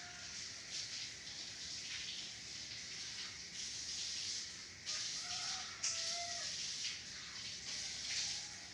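Outdoor bird calls: a few short pitched notes, clustered about five to six seconds in and again near the end, over a steady high hiss.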